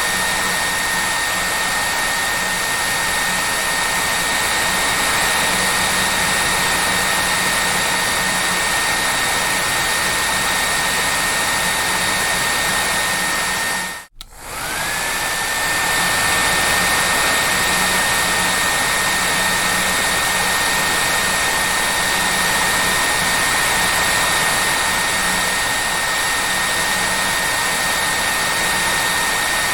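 Hair dryer running steadily: a rushing airflow hiss with a high motor whine. About halfway through it cuts out for a moment and comes back, the whine rising back up to pitch.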